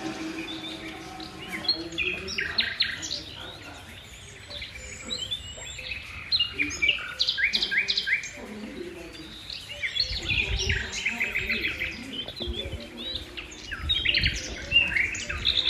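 Birds chirping and trilling, many short calls overlapping and repeating.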